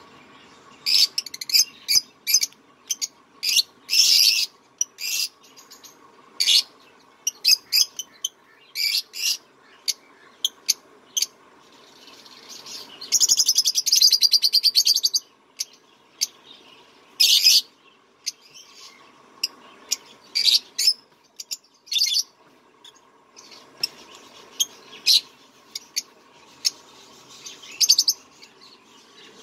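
Small cage birds chirping: many short, sharp high calls in quick, irregular succession, with a buzzy chattering run about thirteen to fifteen seconds in.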